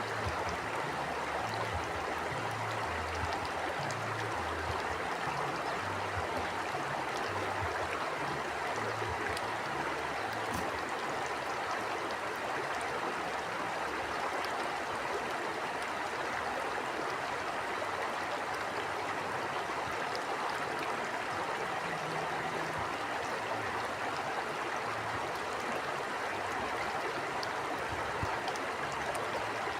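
A river stream flowing steadily, its water rushing and burbling without a break.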